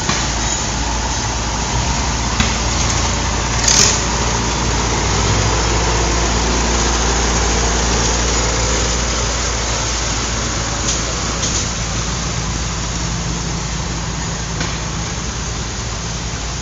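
Antique tractor engines running steadily, with a brief sharp noise a little under four seconds in.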